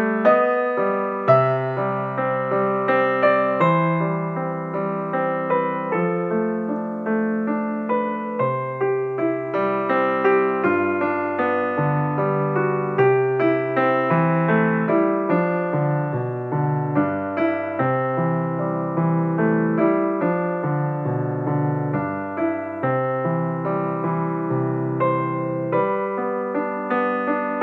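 Background music played on piano: a steady flow of struck notes, a melody over low bass notes that change every second or two.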